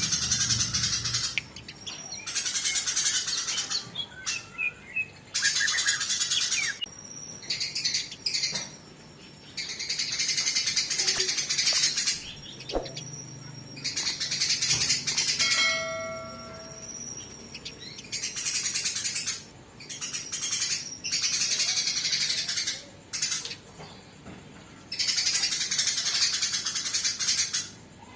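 Eurasian tree sparrows chattering harshly in a fight, in repeated bursts a second or two long with short breaks between them.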